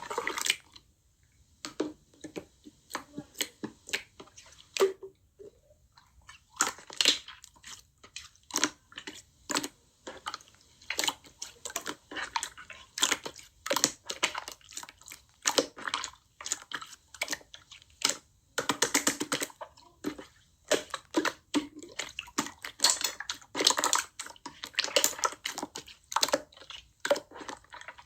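Slime being pressed, stretched and squished by hand, making irregular wet clicks and crackling pops, some in quick clusters.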